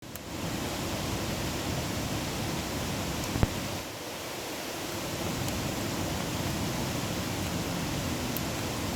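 Campfire burning with a steady rushing hiss and a few scattered pops, one sharp crack a little over a third of the way in.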